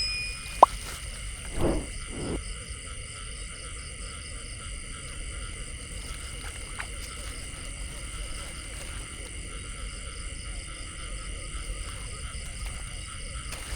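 Steady night chorus of frogs and insects calling together in several high, continuous trilling layers. A sharp click under a second in and two dull thuds about two seconds in.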